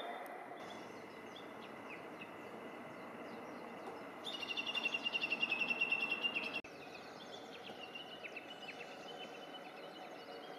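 Small birds chirping over a steady outdoor hiss. About four seconds in, a loud rapid high trill of about six pulses a second runs for some two seconds and cuts off suddenly with a click.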